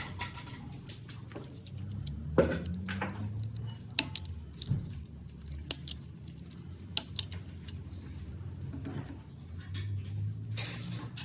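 Small metal parts being handled: scattered clicks and light taps, a few of them sharp, over a low steady hum.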